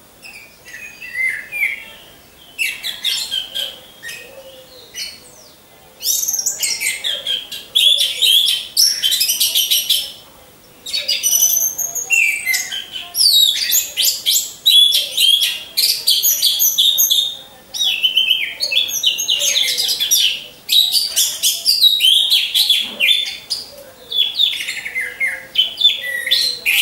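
Orange-headed thrush singing: long runs of rapid, varied chirps and whistled notes with short pauses between phrases, sparse at first and much denser from about six seconds in.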